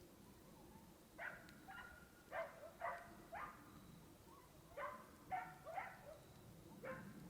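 A dog barking, about ten short barks in three quick runs, each run with barks about half a second apart.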